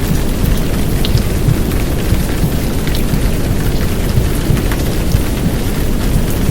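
Heavy downpour rain mixed with womb sounds for soothing a baby: a steady, loud noise dominated by a deep muffled rumble, with scattered drop ticks on top.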